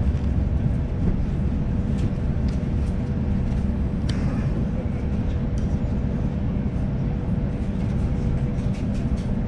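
Sydney suburban electric train running, heard from inside the carriage: a steady low rumble with a steady hum over it, and a few sharp clicks about two and four seconds in and again near the end.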